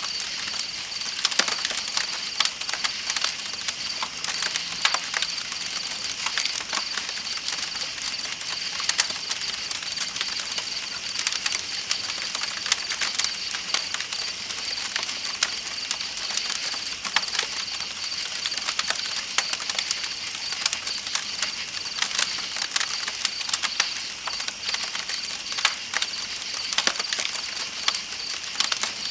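Campfire crackling with many sharp pops, over a steady high trilling of night insects and the even rush of flowing river water.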